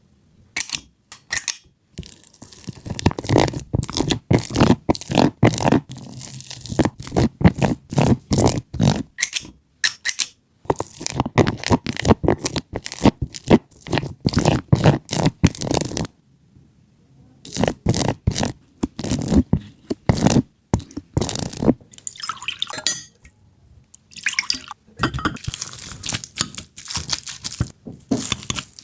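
Kitchen food preparation: runs of quick crunching and scraping knocks, several a second, in bursts with short pauses between them.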